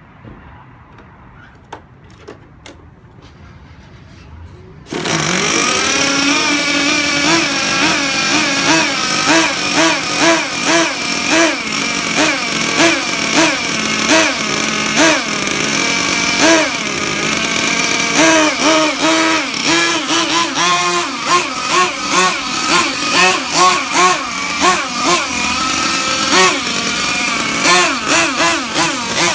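Small two-stroke gas engine of a 1/5-scale RC monster truck. A few faint clicks, then about five seconds in the engine comes in suddenly and runs, its throttle blipped over and over so the pitch keeps rising and falling.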